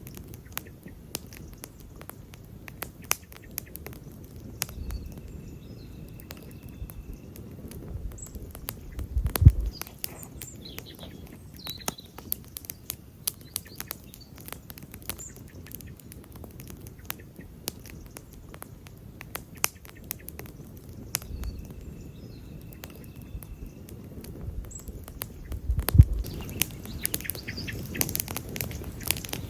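Wood campfire crackling and popping irregularly over a low rumble of burning, with a louder flurry of pops about nine seconds in and again near the end. Twice a faint thin whistle lasts a couple of seconds.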